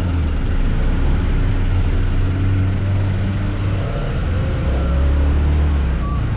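Scooter engine running steadily while riding, with a low rumble of engine and road noise under wind on the microphone.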